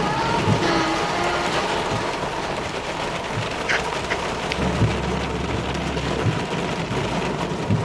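Steady rain falling in a storm, with a low rumble of thunder for about two seconds near the middle.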